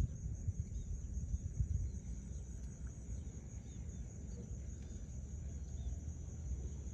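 Outdoor ambience: a steady high-pitched drone with scattered faint short chirps over a low rumble.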